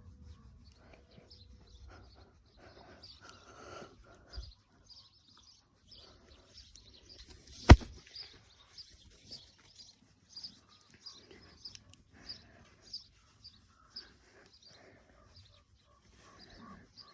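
Small birds chirping in short repeated high notes, with one sharp, loud click about eight seconds in.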